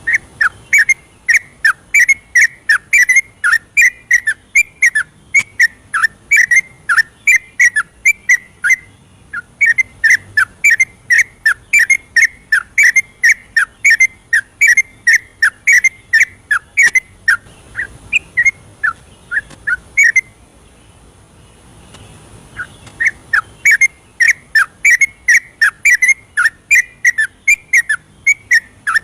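Yellow-vented bulbul singing a long, rapid run of short whistled notes, about three a second. It breaks off for about two seconds roughly two-thirds of the way through, then starts again.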